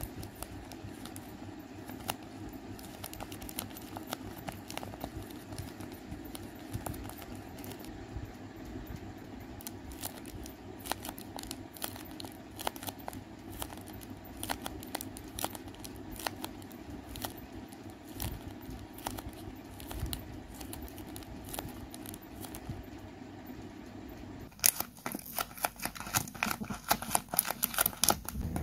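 Tape-covered paper squishies squeezed and pressed by hand: soft crinkling and crackling of paper and tape, over a steady low hum. Near the end the crinkles become louder and sharper.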